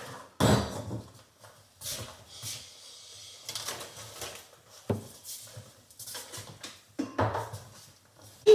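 Household handling sounds: a handful of separate knocks and clatters, like things being set down, with the loudest one near the end.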